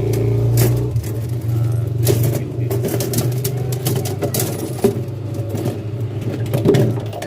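A steady low motor hum, easing slightly about a second in, with scattered clicks and knocks of handling over it.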